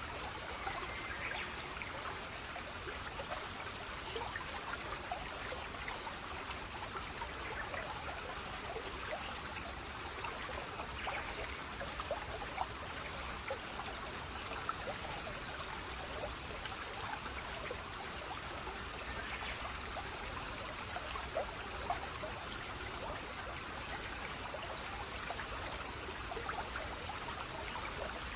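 Shallow water flowing and trickling steadily, with many small splashes and drips.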